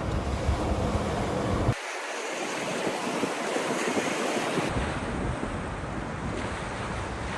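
Surf breaking and washing on a beach, with wind rumbling on the microphone. The wind rumble cuts out suddenly about two seconds in and comes back about halfway through.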